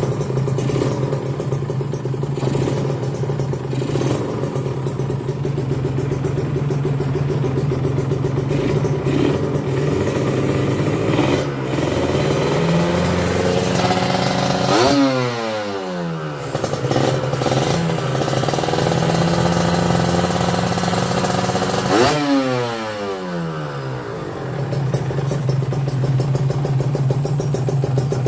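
Kawasaki Ninja R two-stroke single-cylinder engine running through an Ai-tech racing exhaust, idling and then revved hard twice, about fifteen and twenty-two seconds in, with the pitch falling back to idle after each blip.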